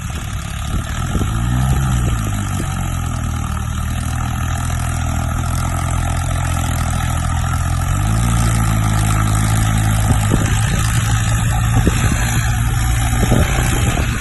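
Tractor diesel engine working hard under load, its revs rising briefly about a second and a half in, then stepping up again about eight seconds in and holding high and steady.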